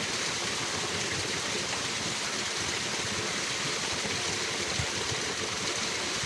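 Flowing water of a stream or river rushing steadily, an even hiss with no breaks.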